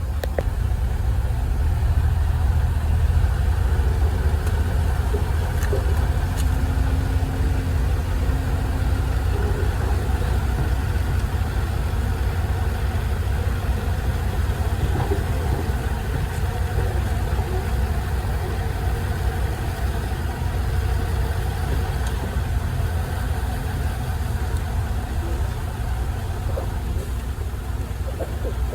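Engine of heavy earthmoving machinery running steadily with a low rumble.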